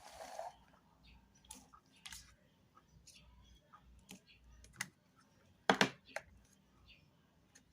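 Irregular clicks and taps of small objects being handled, with one louder, short clatter about six seconds in.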